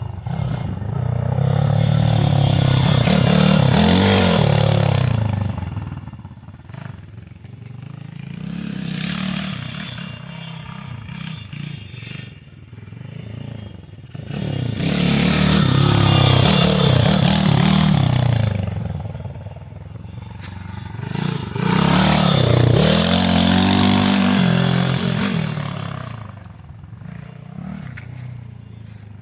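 Pit bike engine revving up and down as the bike is ridden around a track, its pitch rising and falling with the throttle. It grows loud three times as it passes close, near the start, about halfway through and soon after, and fades to a quieter drone in between.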